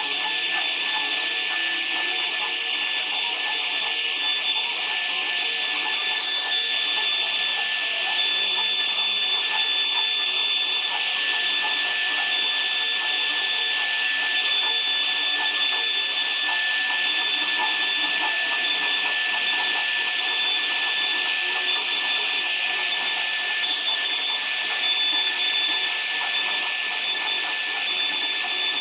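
A woodworking power tool running steadily with a constant high whine and hiss, cutting wood.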